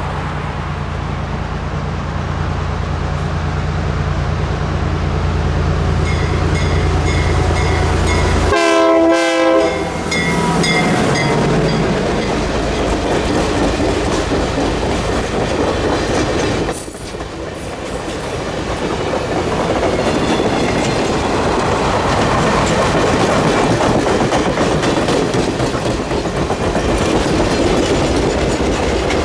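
Cuyahoga Valley Scenic Railroad train passing close by. A steady engine hum gives way to a short horn blast about nine seconds in. After that comes the continuous rumble and clickety-clack of the cars rolling over the rails.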